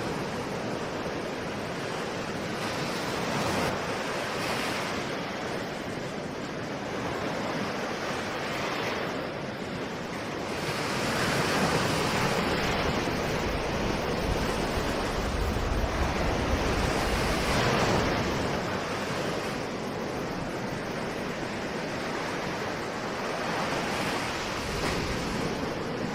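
Ocean surf: waves breaking and washing ashore in a continuous rushing hiss that swells and eases, loudest through the middle stretch.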